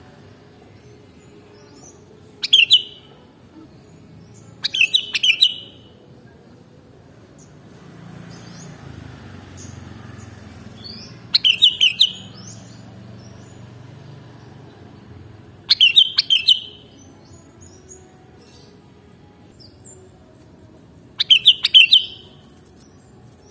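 Sooty-headed bulbul (kutilang) calling: five short bursts of quick, bright chirps, each under a second long and a few seconds apart, over a faint low rumble.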